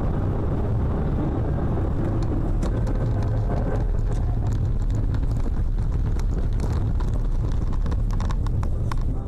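A car driving: a steady low rumble of road and engine noise, with a few faint ticks over it.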